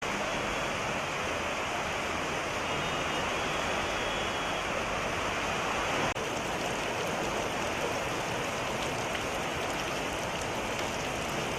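Rain falling steadily, an even dense hiss, with a brief dropout about six seconds in.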